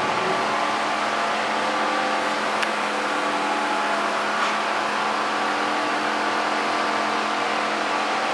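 Car engine idling steadily, an even hum and hiss holding one pitch, with a couple of faint ticks.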